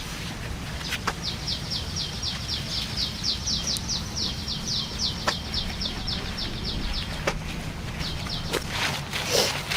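A bird trilling: a fast run of short, high chirps, about seven a second, lasting some six seconds, then a brief second run. A low steady hum and a few light clicks are heard under it.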